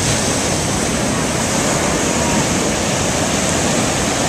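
Rough, storm-driven surf breaking on the beach, a steady wash of noise with wind buffeting the microphone.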